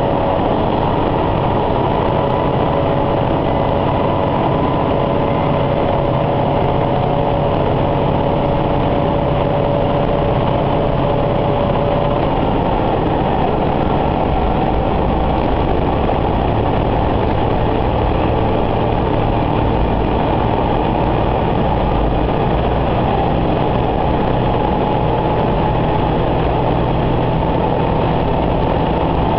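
Diesel railcar running along the line, heard from inside the car: a steady engine drone with the rumble of wheels on rail. A faint steady whine fades out about twelve seconds in.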